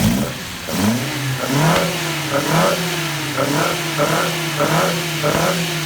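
Volvo 145's engine on Weber carburettors running and being blipped over and over, each rev rising and falling back to a steady idle.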